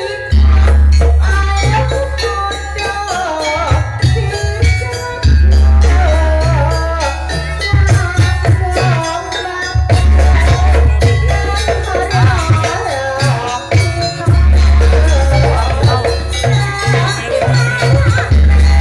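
Jaranan dance music from a Javanese ensemble: heavy booming drum hits under a wavering melodic lead line, with rattling percussion.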